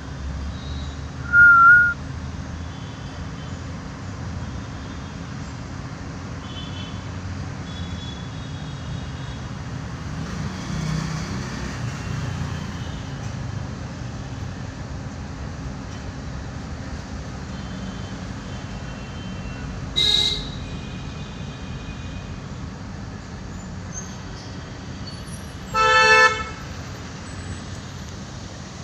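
Steady road-traffic rumble with three short, loud horn toots: one near the start, one about two-thirds through and one near the end. Faint short high chirps are heard throughout.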